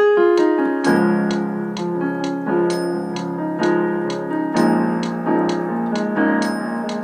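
Piano-voiced keyboard playing a slow ballad: full chords with a melody on top, struck about once a second and left to ring. The playing starts again sharply right at the start after a brief pause.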